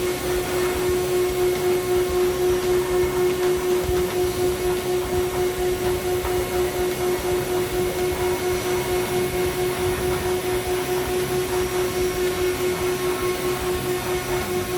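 Schwamborn DSM650 planetary concrete floor grinder running together with its dust extraction vacuum: a steady, loud machine hum whose loudness pulses about two to three times a second.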